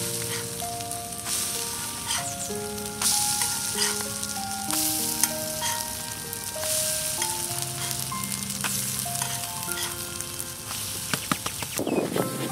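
A Maggi noodle and egg omelette sizzling as it fries in hot oil in a pan, a steady hiss, under a background music melody of held notes.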